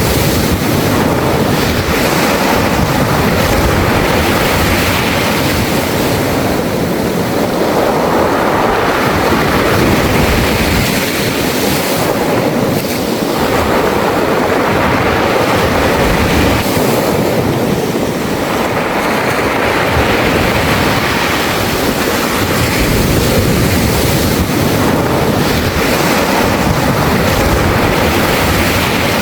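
Surf washing onto a beach of smooth round pebbles, the stones rattling as each wave runs up and drains back. A continuous rush that swells and eases every several seconds.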